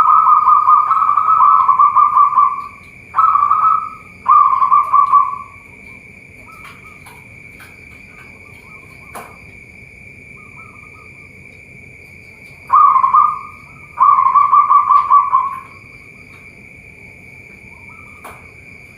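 Zebra doves cooing in phrases of quick soft notes: a long run at the start, two short phrases soon after, then a pause and two more phrases later on. A steady high-pitched drone runs underneath.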